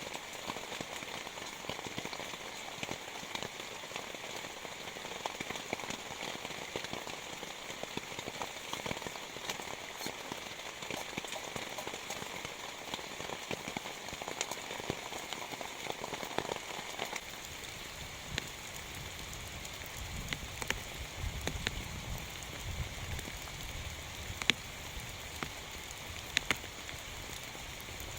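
Heavy rain falling steadily, with many separate drops ticking sharply and a few louder drip hits near the end. From a little past halfway a low rumble joins the rain.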